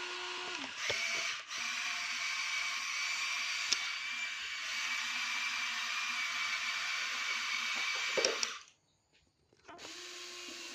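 Small electric motor and gears of a radio-controlled toy truck running with a steady high whine. It stops for about a second near the end, then starts again more quietly.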